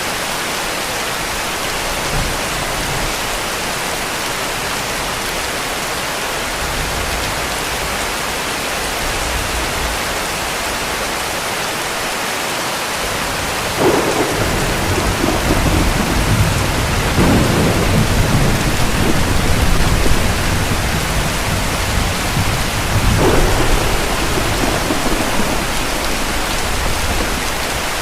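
Heavy rain falling steadily. About halfway through, thunder breaks in with a sudden onset and rumbles for around ten seconds, with a second swell a few seconds before the end.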